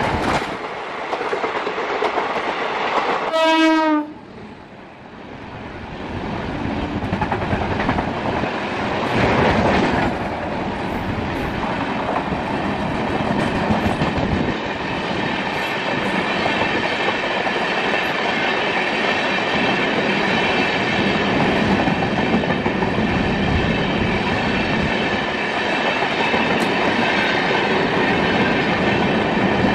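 Indian Railways passenger train coaches running past at speed, a continuous rushing noise of wheels on track. A short horn blast sounds about three seconds in and cuts off abruptly.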